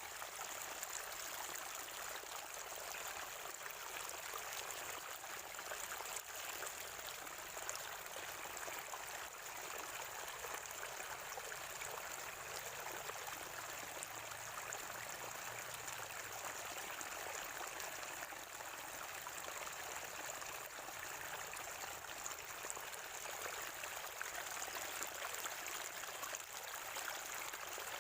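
Natural spring water flowing and gurgling, a steady, unbroken rush.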